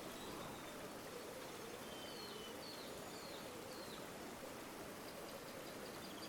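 River water flowing steadily, with a few short high bird chirps about two to four seconds in and a faint bird trill starting near the end.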